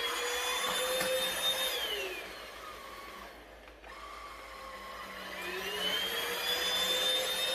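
Cordless stick vacuum's motor running with a high whine, then switched off about two seconds in so the whine falls away as it spins down. A few seconds later it is switched back on, the whine rising again as the motor comes up to speed.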